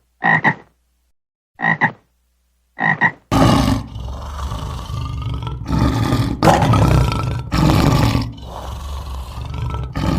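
Animal calls: three short double-pulsed croaks in the first three seconds, then a loud, rough, drawn-out roaring call that goes on in several long bouts.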